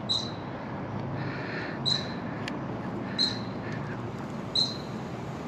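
A bird calling over and over: a short, high note that drops quickly to a brief held whistle, four times, about a second and a half apart.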